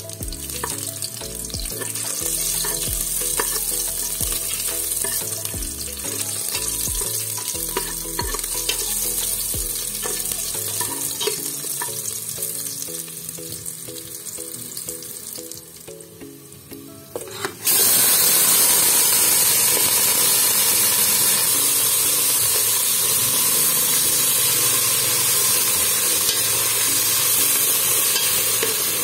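Chopped garlic and onion sizzling in hot oil in a stainless steel pot, stirred with a metal utensil. About two-thirds of the way through, the sizzle jumps suddenly much louder and stays loud as raw beef chunks go into the hot oil.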